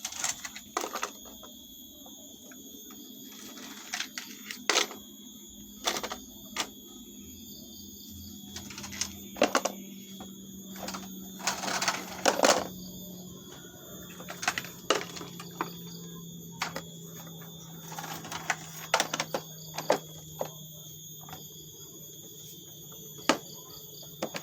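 Plastic toy vehicles being handled and played with: scattered clicks and clacks, with a denser run of louder knocks about halfway through, over a steady low hum that drops slightly in pitch.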